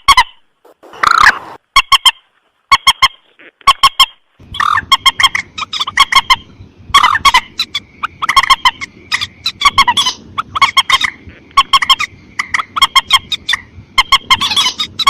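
Recorded lure call of a mandar sawah (a rail) calling: quick runs of short, sharp, repeated notes in clusters. The calls grow denser and run almost continuously from about four seconds in, over a faint background hiss.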